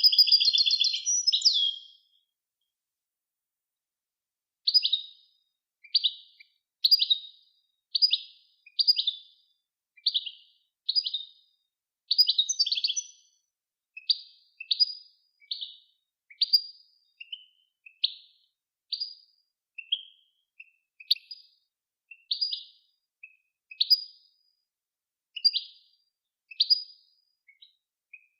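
Recorded songbird song of the kind played to teach cage birds: a rapid trilled phrase at the start, then a long series of short, separate chirps, about one a second.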